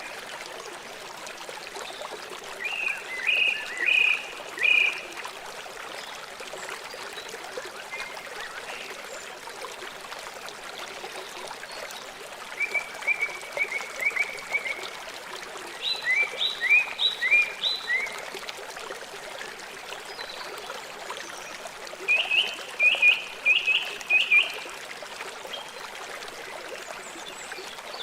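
Steady rushing of a river or stream. Over it, a bird calls in four short bursts of rapid high chirps, some of them falling notes.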